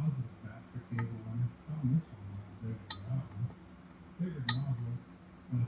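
Three sharp metallic clinks of tools being handled, about a second in, near the three-second mark and, loudest, past the four-second mark, over a low voice talking in the background.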